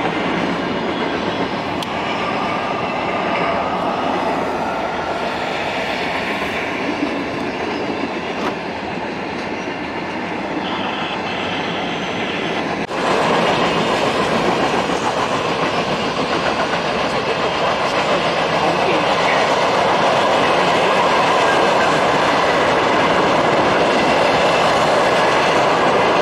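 Mixed freight train rolling past, with a steady rumble and clickety-clack of steel wheels on the rails. The first half is heard muffled from inside a car. About halfway through it is suddenly louder and more open, heard from trackside as the boxcars and tank cars go by.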